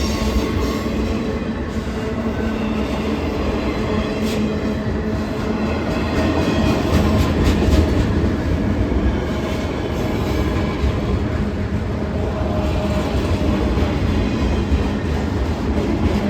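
A freight train rolling past, a steady loud rumble of steel wheels on rail with clacking over the joints.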